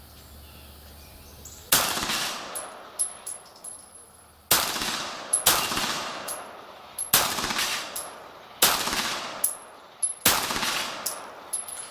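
Beretta 92G Elite Compact 9 mm pistol fired six times at an unhurried pace, the shots about one to nearly three seconds apart. Each report is sharp and trails off, and light metallic pings sound between the shots.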